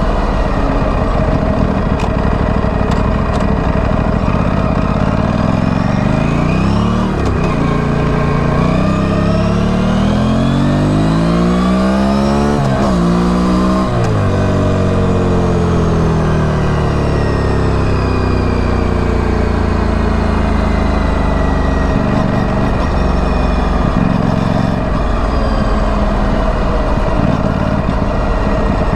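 2025 Aprilia Tuono 457's parallel-twin engine through its stock exhaust, accelerating through the gears from about six seconds in. The pitch climbs and drops back at each of several upshifts, then settles into a steady cruise that slowly falls in pitch.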